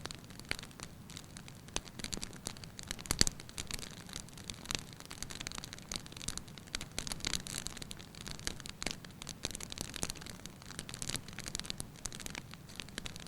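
Logs burning in a fireplace, crackling: a steady stream of small snaps and pops over a low, steady rumble of flame, with one louder pop about three seconds in.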